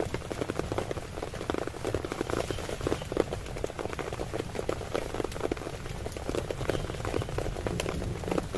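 Heavy rain falling on a tent: a dense, steady patter of countless drops hitting the fabric.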